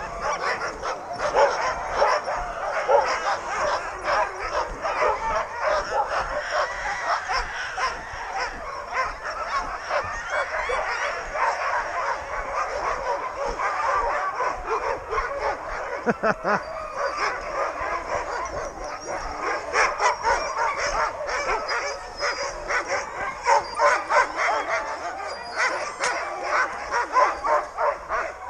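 A yard full of excited sled dogs barking, yipping and whining all at once in a continuous, loud chorus, the clamour of a team being harnessed for a run.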